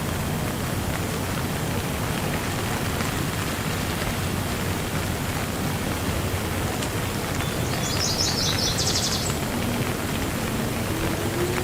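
Steady rain falling. About eight seconds in, a bird gives a quick run of high chirps lasting about a second and a half.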